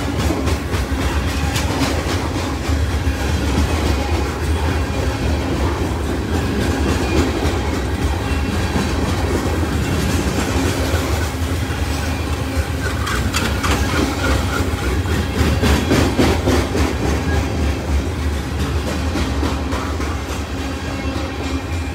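Loaded grain hopper cars of a freight train rolling past in a steady rumble, their wheels clicking rhythmically over the rail joints.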